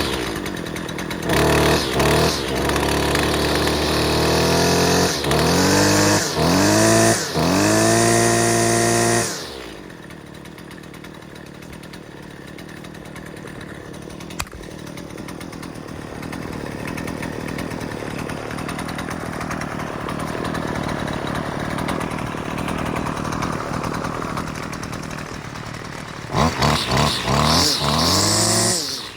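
Husqvarna 128CD 28cc two-stroke string trimmer being revved: short throttle blips, then held at full throttle, dropping back to a quieter idle about nine seconds in. Near the end it is blipped up quickly a few times again.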